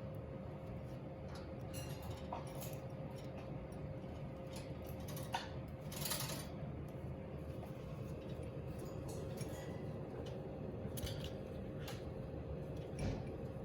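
Cockatiel bathing in a water bowl: small scattered clicks and taps, with a brief burst of splashing about six seconds in, over a steady low hum.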